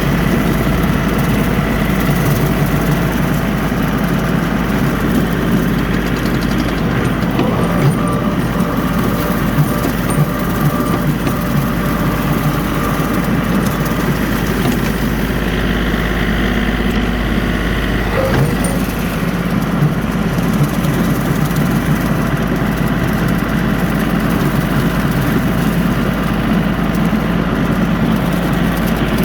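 John Deere 3043D compact tractor's diesel engine running steadily while bush hogging with a 4-foot rotary cutter. There is a brief knock about 18 seconds in.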